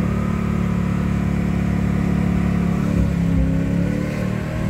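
Chevelle SS396's big-block V8 under hard acceleration, heard from inside the cabin; the engine note holds and then climbs again in pitch near the end. This is an engine test run that takes it to about 5,000 rpm.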